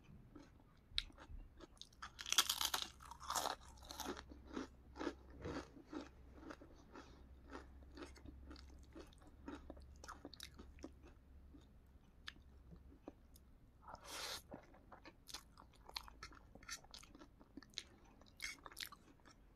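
A person chewing. It begins with crunching a ridged potato chip, loudest a couple of seconds in, then goes on to softer chewing of vegetable noodles, with short crunchy bursts later on.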